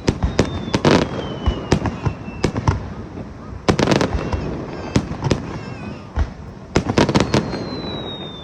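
Fireworks shells bursting, a rapid series of sharp bangs with the densest volleys about a second in, near the middle, and around seven seconds. A thin whistle sliding down in pitch sounds early on and again near the end.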